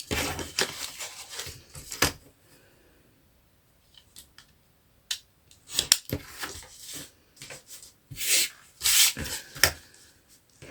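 Scissors snipping through paper and the paper rustling as it is handled, in a few short bunches of scratchy cuts with quiet pauses between.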